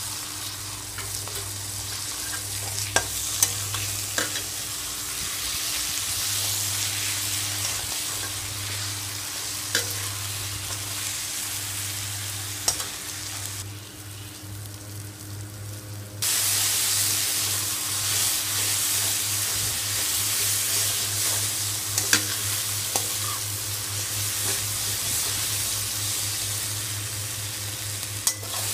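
Tomatoes and curry masala sizzling as they fry in a metal pot while being stirred with a metal spatula, with scattered sharp clicks of the spatula against the pot. The sizzle dips briefly a little past halfway, then comes back louder.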